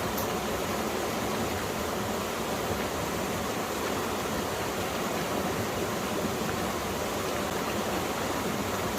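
Mountain stream running over rocks in a valley: a steady, even rush of water.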